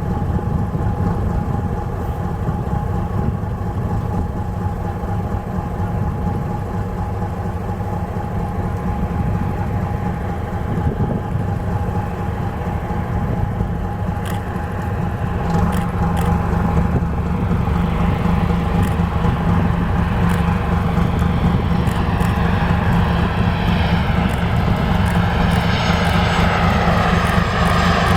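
A boat's engine runs steadily with a low rumble. From about halfway in, an approaching jet airliner's engine whine and roar grow steadily louder.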